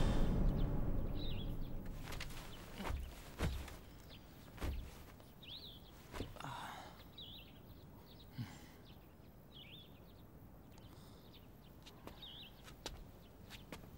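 Small birds chirping now and then, short high chirps every second or two, after music fades out at the start. A few soft thumps in the first few seconds, and scattered light clicks.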